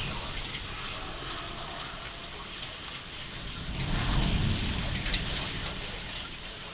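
Heavy rain falling steadily during a severe thunderstorm, with a low rumble of thunder swelling and fading about four seconds in.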